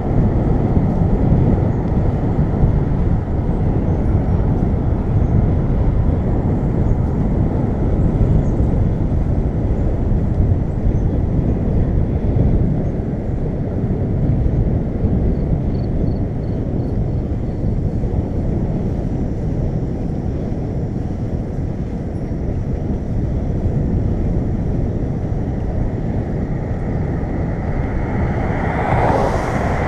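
Steady wind rumble on the microphone of a camera riding along on a moving bicycle, with a louder whoosh near the end.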